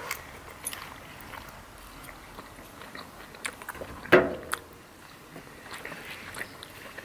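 Faint eating sounds at a meal: small clicks and scrapes with chewing. A short vocal sound stands out about four seconds in.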